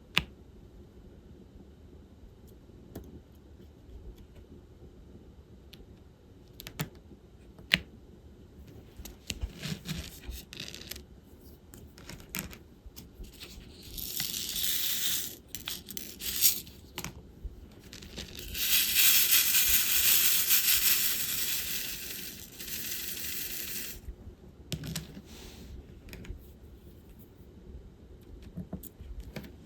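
Diamond painting work: scattered light clicks and taps of resin drills and the drill pen. About halfway through comes a couple of seconds of bright, rustling rattle, and a few seconds later a louder stretch of about four seconds.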